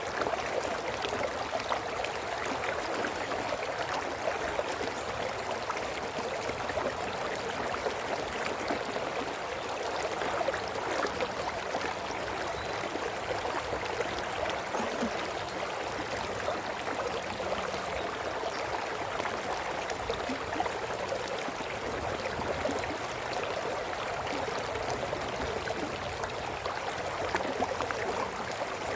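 A small brook running and babbling over stones, a steady gurgling flow with no change throughout.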